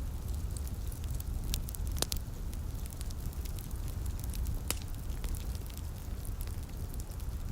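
Wood fire crackling in a fireplace, with scattered small snaps and two sharper pops, about two seconds in and near five seconds, over a steady low rumble.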